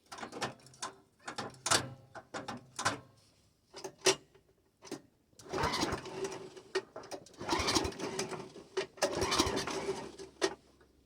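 Snowblower being cranked by its pull-cord starter: some clicks and knocks of handling the controls, then three cranking pulls of about a second and a half each, the engine turning over without catching. The owner takes this for the engine not getting any gas.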